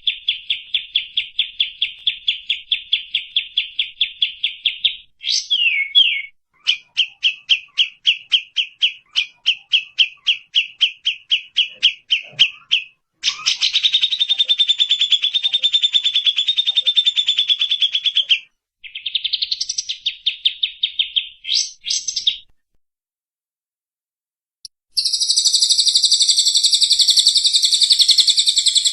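Recorded songbird calls from a bird-song training track: fast runs of repeated chirps at about eight notes a second, then a dense buzzy trill, and near the end a higher, continuous trill, separated by short pauses.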